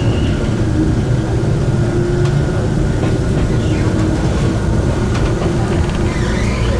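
Enoden electric train running, heard from the front of the car: a steady low rumble of wheels on rail, with a brief high squeal near the end.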